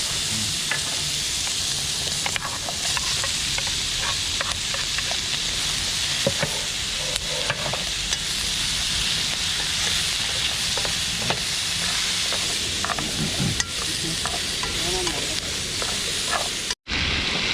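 Food sizzling in a pan while it is stirred, with a steady hiss and scattered light clicks of the utensil. Near the end the sound cuts out briefly.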